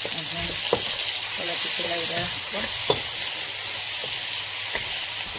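Sliced onions, whole spices and ginger sizzling in hot mustard oil in a wok while being stirred, with a couple of sharp clicks of the utensil against the pan.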